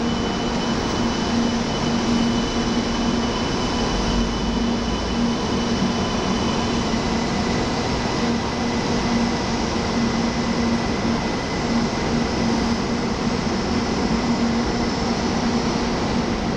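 A 700 series Shinkansen pulling out of the platform and running past at rising speed: a steady rush of rolling and running noise with a low hum and a thin high whine.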